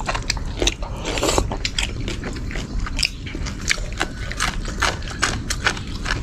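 A person eating and chewing, with quick, irregular clicks, several a second.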